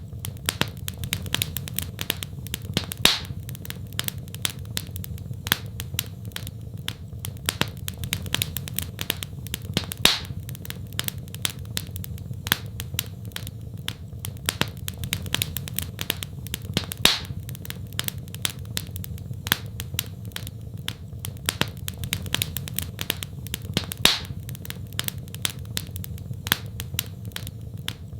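Wood fire in a fireplace crackling: a dense run of small sharp pops and snaps over a steady low rumble, with a louder pop about every seven seconds.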